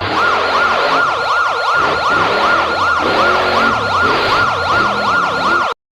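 Emergency-vehicle siren in a fast yelp: a loud tone dips and climbs back in quick sweeps, about two and a half times a second, then cuts off suddenly near the end.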